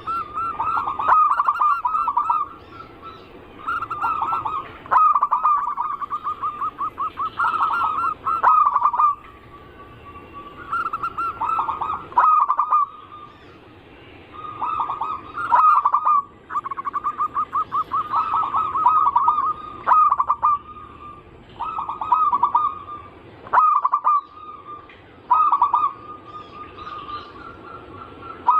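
Zebra doves (perkutut) cooing: rapid, rolling staccato phrases, each one to two seconds long, repeated again and again with short pauses between them.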